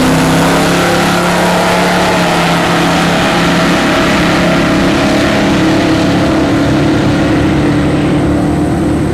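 Chevrolet Monte Carlo SS drag car's 383 stroker V8 running hard at full throttle down the quarter-mile, a loud, steady engine note.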